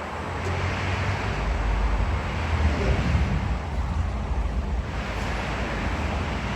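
A car driving: a steady low engine and exhaust drone under road and wind noise, with the low drone swelling about a second in.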